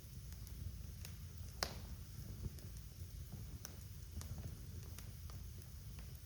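Wood fire burning in a fireplace: a steady low rumble of the flames with scattered sharp crackles and pops, the loudest pop about a second and a half in.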